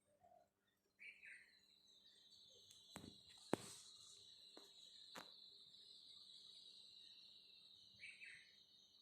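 Faint, steady, high-pitched insect drone that starts about a second in. Two short bird chirps and a few sharp clicks come over it.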